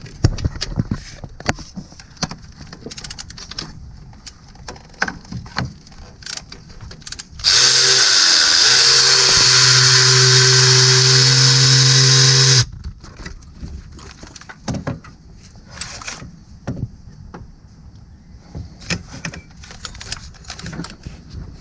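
Scattered metallic clicks and knocks of hand tools on engine bolts, then a cordless power tool spins up and runs steadily for about five seconds before stopping suddenly, running out a timing-cover bolt.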